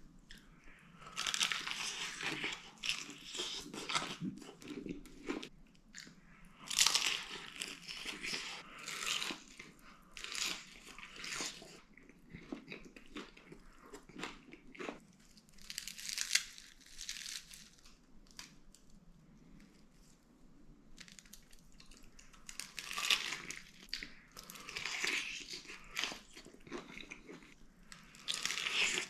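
Close-up crunching and chewing of crispy air-fried fried chicken, bites coming in irregular spells of a few seconds with quieter pauses between.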